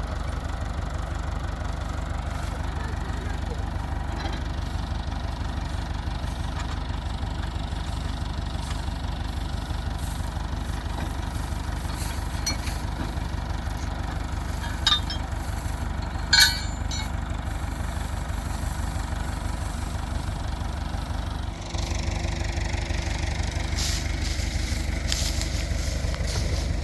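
Combine harvester's diesel engine running steadily, with two sharp clicks near the middle. About two-thirds of the way through it dips for a moment, then comes back louder, with more rattle and hiss.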